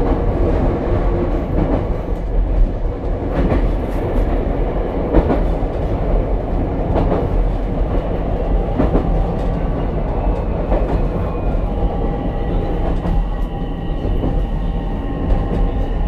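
Ichibata Electric Railway 7000-series railcar running: a steady rumble of wheels on rail with scattered clicks over the rail joints. From about twelve seconds in, a steady whine joins.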